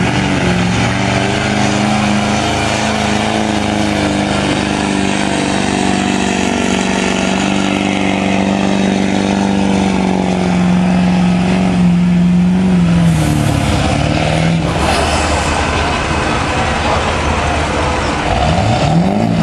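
A 2001 GMC Duramax 6.6-litre V8 turbo-diesel pickup held at high revs under full load as it drags a pulling sled. The engine note stays steady for about twelve seconds, then falls away as the pull ends and drops to a lower rumble.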